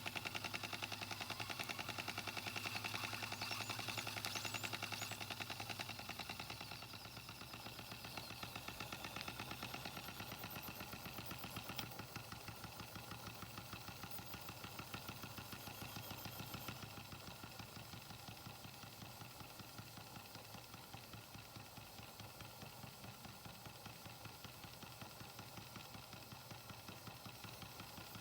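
Model steam engine, a Wilesco D3 combined with a Microcosm M81 beam engine, running with a fast, even clatter of beats. It drops a little in loudness about seven seconds in and keeps running steadily.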